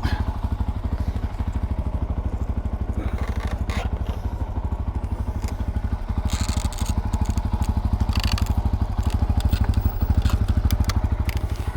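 Keeway RKF 125's single-cylinder four-stroke engine idling steadily while it warms up, with a few brief scrapes and clatters over it.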